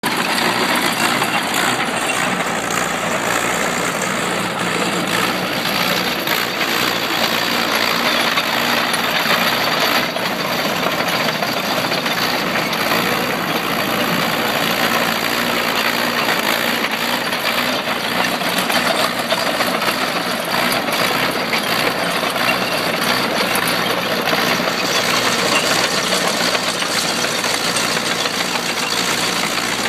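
The Hercules JXD six-cylinder gas engine of a 1948 Cletrac BGS crawler tractor running steadily.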